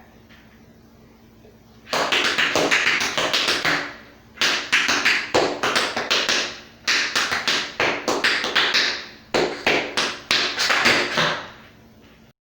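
Tap shoes' metal plates striking a hard floor in rapid runs of taps. There are four phrases of about two seconds each with brief pauses between them, starting about two seconds in.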